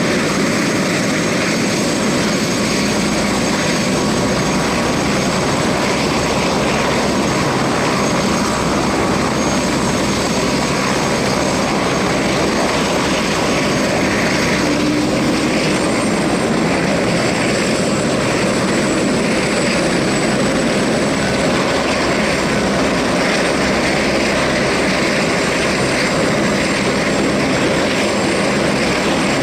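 Airbus Helicopters AS350 helicopter running, with steady turbine and rotor noise. A faint high whine shifts up a little about halfway through.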